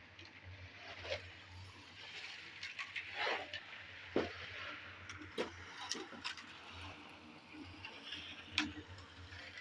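Scattered knocks and short scrapes of hand tools working wet concrete: one longer scrape about three seconds in, then sharp knocks every second or two, over a low steady hum.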